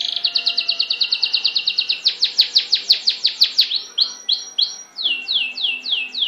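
A songbird singing in runs of repeated, falling whistled notes: a fast string of about ten short notes a second, then slower, louder sweeping notes, a few flatter notes, and another run of falling notes near the end.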